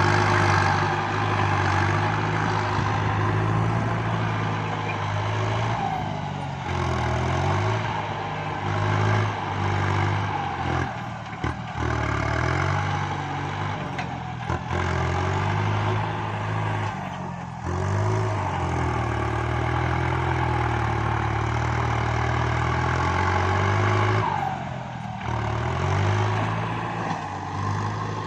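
Kubota MU5702 tractor's diesel engine working under load, its pitch and loudness rising and falling as the load changes, with short dips several times.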